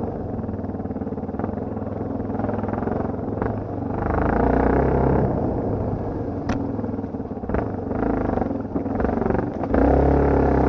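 Dirt bike engine running under throttle, opening up louder twice, about four seconds in and near the end, with a sharp click about halfway through.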